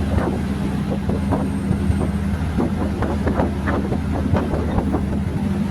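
Diesel train running: a steady low engine drone with irregular clicks and rattles throughout.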